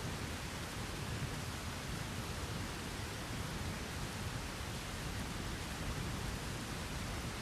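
Steady rain falling, an even hiss with a low rumble underneath and no distinct thunderclap.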